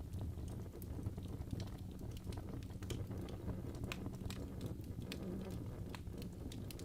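Crackling fireplace: a steady low rumble of burning logs with irregular sharp pops and snaps.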